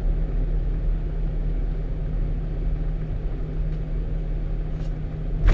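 Steady running noise of a 1-ton truck on the road: an even low engine drone and tyre rumble with no change in speed, heard from inside the cab. A sudden louder knock comes right at the end.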